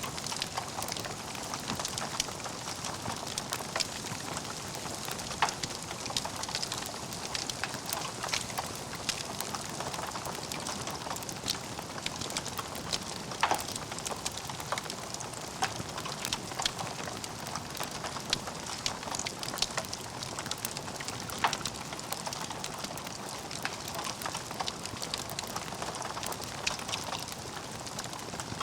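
Logs burning in a fireplace, crackling and popping: a steady hiss dotted with many small sharp crackles and a few louder pops.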